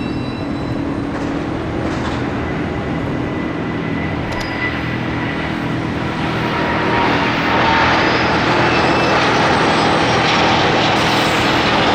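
British Airways Boeing 787-9's Rolls-Royce Trent 1000 turbofans at takeoff power, a steady jet engine noise with a low hum that grows louder and brighter about seven seconds in.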